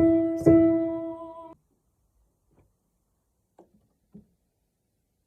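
A voice holds the song's final sung note over a chordal accompaniment, with two struck chords, and the music cuts off suddenly about a second and a half in. Near silence follows, with two faint knocks near the end.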